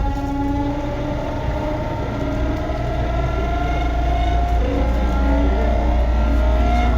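Tobu 9050 series electric train running, with a low rumble and a whine from its traction motors that rises in pitch and grows louder over the last few seconds as the train picks up speed.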